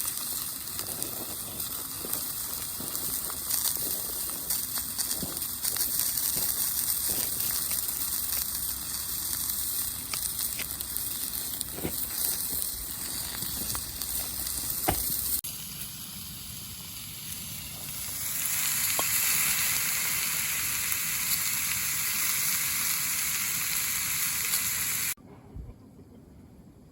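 Food sizzling over a wood campfire, a steady hiss with sharp crackles and pops. The sound changes abruptly about halfway through and drops suddenly to a faint hiss near the end.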